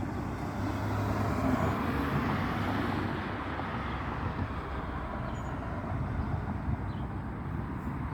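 Road traffic noise: a steady rumble of passing motor vehicles, swelling a little during the first few seconds.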